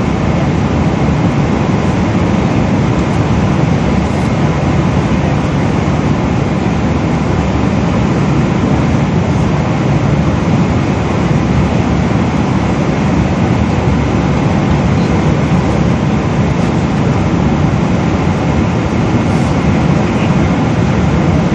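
Steady low drone of a Boeing 777's engines and airflow, heard inside the passenger cabin in flight. It holds even throughout, with no change in pitch or level.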